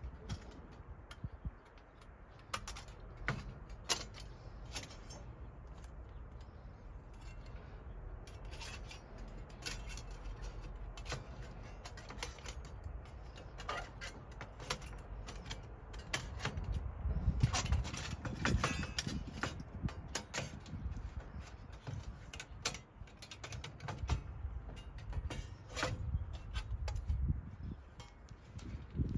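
Metal parts of a small folding wood stove clinking and clicking as they are handled and fitted together, with low bumps of handling in between.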